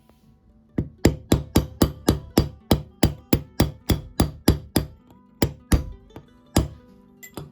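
A hammer tapping in a steady rhythm, about four blows a second, some twenty in all, slowing to a few spaced strikes near the end. Quiet acoustic guitar music plays underneath.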